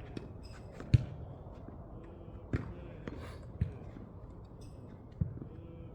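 Tennis rally: a tennis ball struck by rackets strung with Babolat RPM Hurricane and bouncing on the court. Four sharp impacts come roughly one to one and a half seconds apart, the first the loudest.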